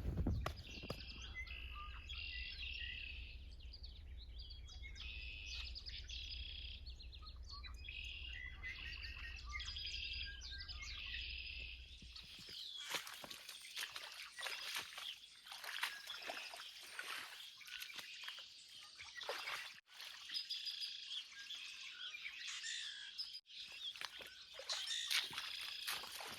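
Songbirds singing and chirping in repeated short high phrases, with a steady low rumble underneath for the first half.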